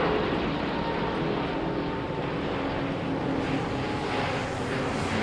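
Jet airliner engines heard from the ground as a steady rush of noise, with faint tones that drift slowly in pitch as the aircraft passes.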